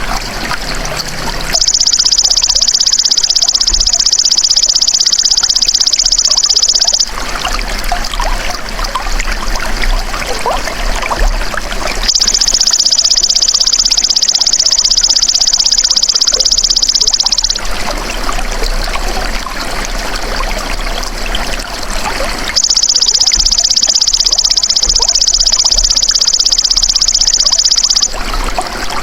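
Belalang emas (golden grasshopper) insect calling: a high, even buzzing trill of about five and a half seconds, repeated three times about ten seconds apart, over steadily trickling water.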